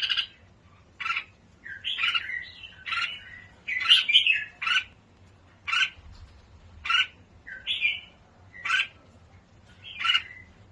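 A bird calling over and over: short, harsh chirping calls about once a second.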